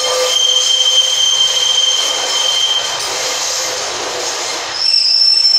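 Northern Class 142 Pacer diesel unit running in slowly along a curved platform, with a steady high-pitched squeal from its wheels and brakes. A second, louder squeal at a different pitch comes near the end.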